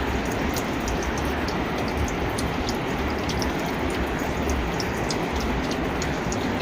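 Steady rushing of an underground river inside a cave, with many small scattered clicks and ticks over it.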